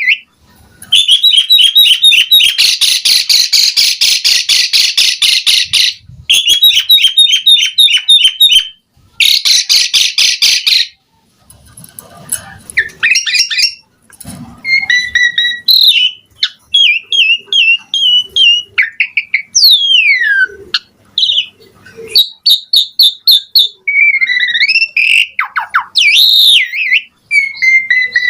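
Asian pied starling (jalak suren) in full song. First come three loud bursts of rapid, rattling repeated notes with short breaks between them, then a looser run of whistled notes that slide up and down, one long falling whistle among them. The varied phrases are the rich song filler (isian) that keepers play to train other starlings.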